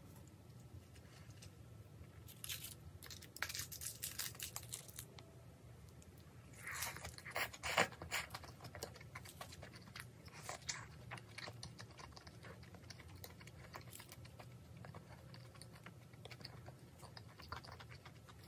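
Close-up eating sounds: a person chewing and crunching on cooked kimchi and other food from a kimchi stew, in uneven bursts of wet crunches, loudest a little before the middle.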